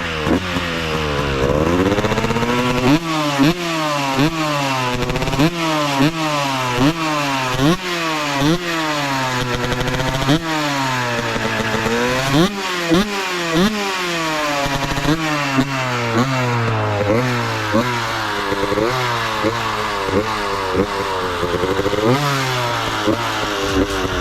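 Tuned Husqvarna WR 125 single-cylinder two-stroke engine revving hard, its pitch climbing and dropping again and again about once a second, with a longer rise and fall about halfway through. The sound cuts off abruptly at the end.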